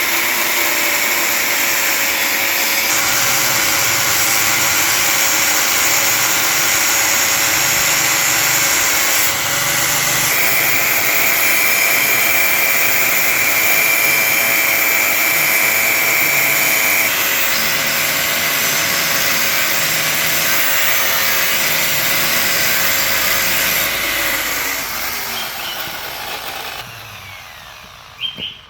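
Electric power tool running steadily under load, a constant motor whine with a harsh high hiss. Near the end it is switched off and the whine falls in pitch as the motor winds down.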